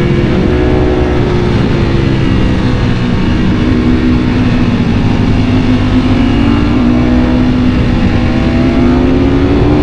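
Ducati Panigale V4 motorcycle's V4 engine running under way at a steady rev, with its note sagging gently through the middle and climbing again near the end.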